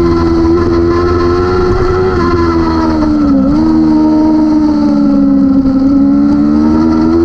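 600cc superbike race motorcycle engine running at high revs. Its pitch eases down from about two seconds in, dips sharply once at about three and a half seconds, holds lower, then starts to climb again near the end.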